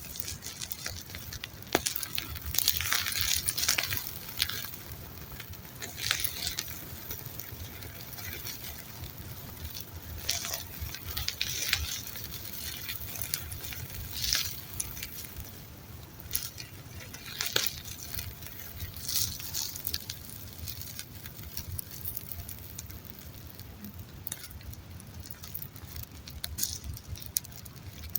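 Campfire burning, crackling and hissing in irregular bursts with sharp pops, over a steady low rumble.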